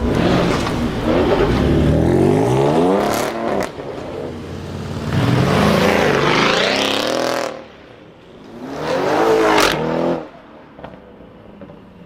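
A car's loud exhaust as the engine is revved hard three times, each burst rising in pitch and then dropping away sharply.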